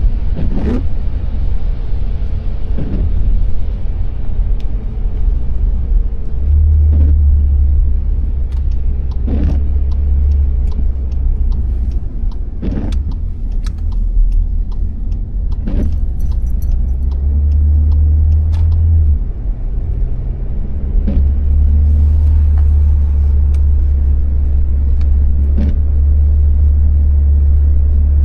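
Car driving on a wet road, heard from inside the cabin: a steady low rumble of road and engine, with short sharp clicks or knocks every few seconds.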